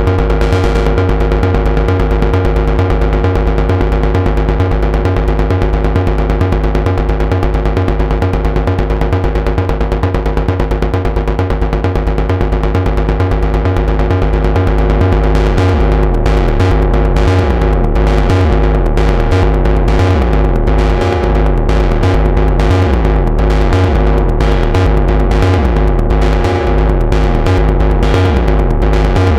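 Moog Subharmonicon analog synthesizer playing a fast, percussive sequenced patch: rapid repeating bass pulses under steady sustained drone tones. About halfway through, the pulses turn denser and brighter.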